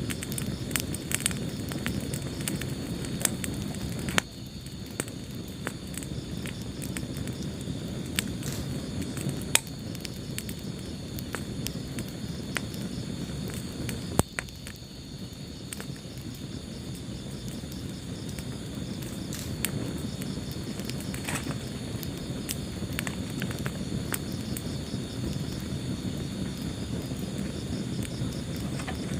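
Wood fire burning in a fireplace: a low steady rumble of flames with frequent sharp crackles and pops, the loudest pops about 4 and 14 seconds in.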